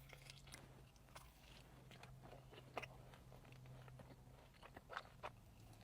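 Faint close-up chewing of a soft cookie, with scattered wet mouth clicks, the sharpest about three seconds in and again about five seconds in, over a faint steady low hum.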